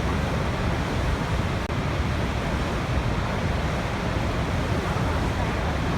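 Waterfall: a steady rush of falling water, deepest in the low end, with no change in level.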